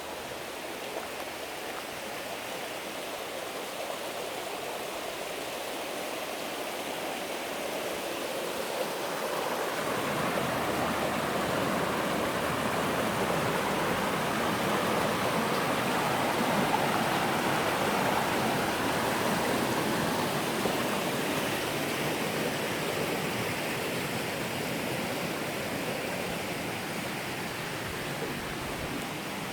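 Water rushing in a forest stream, a steady hiss that grows louder about a third of the way in and eases off again near the end.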